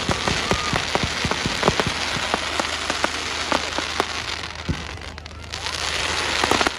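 Fireworks crackling: a dense, continuous patter of many small pops over a hiss. A louder rushing hiss builds near the end and then cuts off suddenly.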